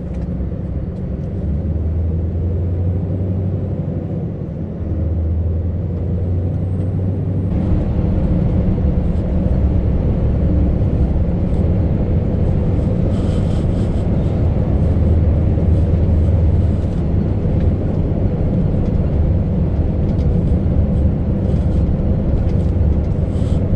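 Scania V8 truck engine running at a steady low drone while the lorry drives along, with road hiss that grows louder about seven seconds in.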